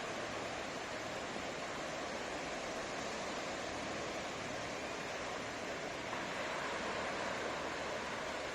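Ocean surf breaking on a beach: a steady rush of waves that swells slightly about six seconds in.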